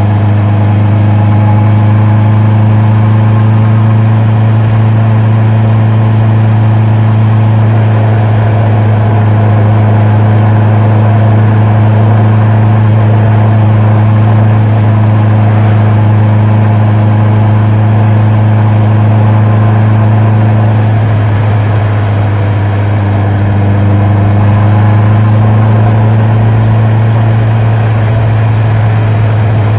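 Honda CB650R's inline-four engine and exhaust running at a steady speed while touring, with an even drone. About two-thirds through, the engine note sags briefly as the throttle eases, then picks back up to the same steady note.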